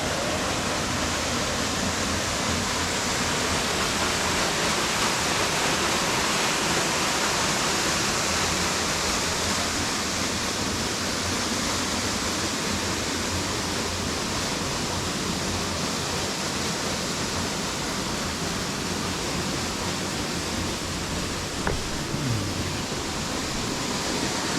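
Waterfall: a steady rush of falling water, with a light knock near the end.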